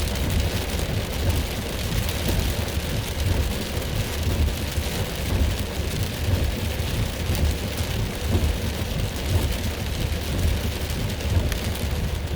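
Heavy thunderstorm rain pouring down steadily, with a continuous low rumble underneath.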